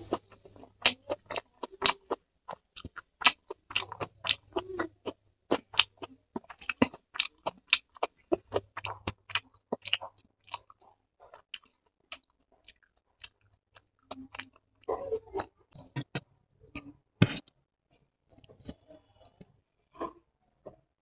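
Close-miked chewing of a mouthful of food with the lips closed: a quick run of wet clicks and smacks that thins out over the second half, with one louder smack a few seconds before the end.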